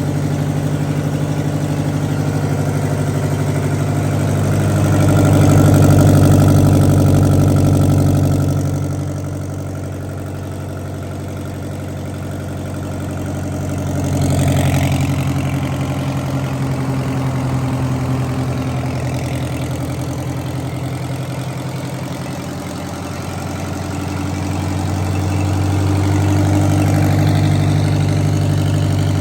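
Detroit Diesel 8V71, a naturally aspirated two-stroke V8 diesel, running steadily. It gets louder for a few seconds near the start and again toward the end.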